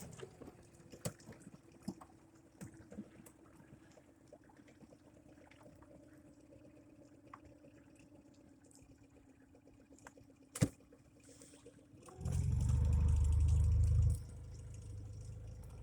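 Small boat's motor running at low throttle with scattered clicks and one sharp knock about ten and a half seconds in. About twelve seconds in it revs up, loud for about two seconds, then keeps running faster.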